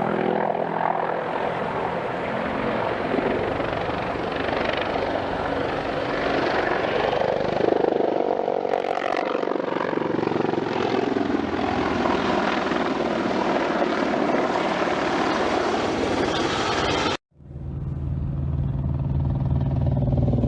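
Several low-flying military attack helicopters passing close by, their rotor and turbine noise loud and continuous, falling in pitch as they go past. About 17 seconds in the sound cuts off abruptly and another helicopter recording starts, with a steady low hum.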